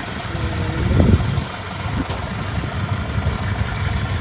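Diesel engine of a rice-field machine running steadily at idle, a low rumble that swells briefly about a second in.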